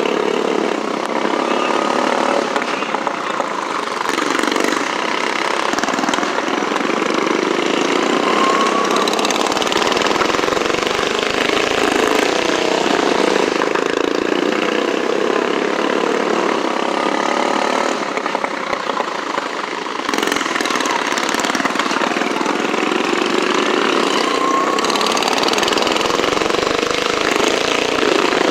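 Small gasoline engines running steadily, with a few brief rises in pitch.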